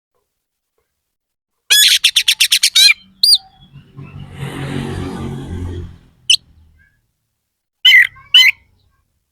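Oriental magpie-robin (kacer) singing: a rapid run of about nine sharp, loud high notes, roughly eight a second, starting about two seconds in, then a lower harsh rasping passage of about two seconds, and a few more single sharp notes near the end.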